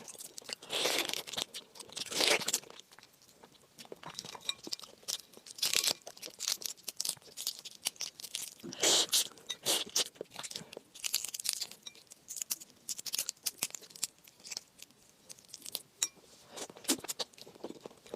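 Close-miked chewing and biting of raw shrimp: rapid, wet, crackling clicks of the mouth, with louder crunching bites every few seconds.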